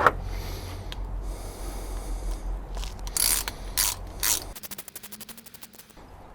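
A socket ratchet clicking quickly, about ten clicks a second, as a bolt is run back in. Before that there are a few sharp knocks of tools and metal parts.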